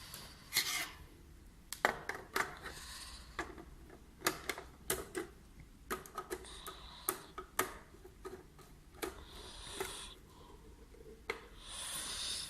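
Hands refitting plastic projector parts, the lamp kit, cover and air filter: irregular sharp plastic clicks and knocks, with a few short scraping rustles.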